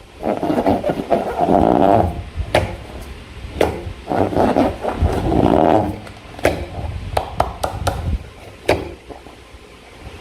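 Slime and rubber balloons being squeezed and worked by hand: two long, grainy squelching stretches of about two seconds each, with sharp sticky clicks and pops between them.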